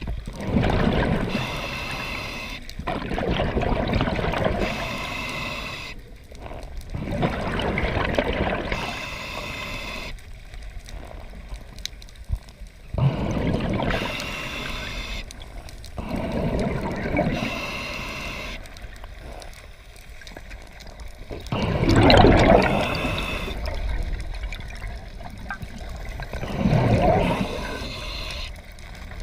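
Water sloshing and gurgling in uneven swells every few seconds, with quieter stretches between; the loudest swell comes about two-thirds of the way through.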